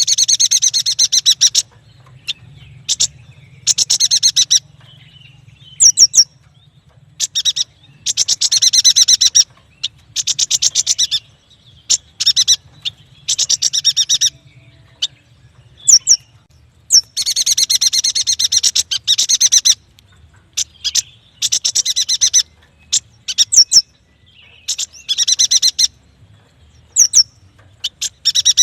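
Yuhina singing: repeated bursts of fast, high chattering trills, each a second or two long, with short sharp high whistled notes between them.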